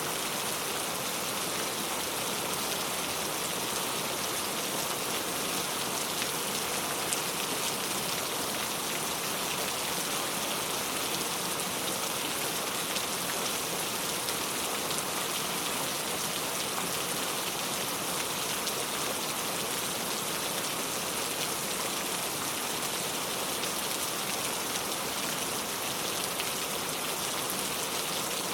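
Heavy rain falling steadily, a dense patter of drops hitting a surface without letup.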